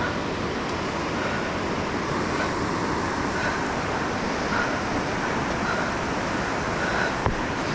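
Steady rush of whitewater from a rocky stream and river rapids, an even unbroken noise.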